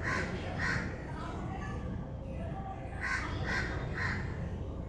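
Crows cawing: two harsh caws near the start, then three more in quick succession about three seconds in, over a steady low background rumble.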